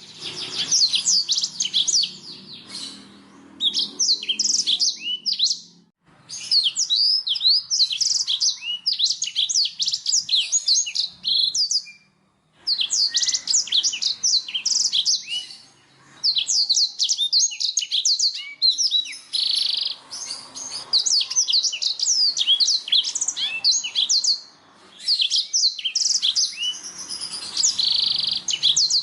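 Black-throated canary (blackthroat) singing long, fast, jumbled phrases of high chirps and trills, broken by brief pauses every few seconds.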